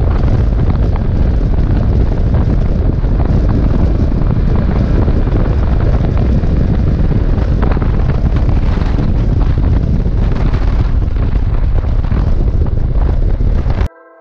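Heavy wind buffeting on the microphone of a moving motorcycle, a steady loud rumble that covers any engine sound; it cuts off suddenly near the end.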